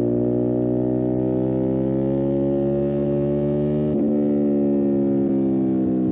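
Motorcycle engine running under load, its note rising slowly in pitch for about four seconds. It then breaks briefly and drops in pitch, and holds steady.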